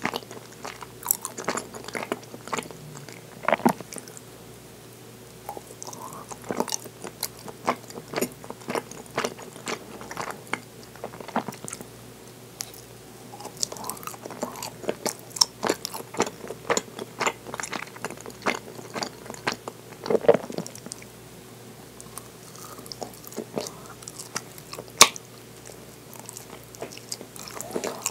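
Close-up mouth sounds of biting and chewing soft mitarashi dango: many short clicks and smacks in bursts, with a few brief pauses.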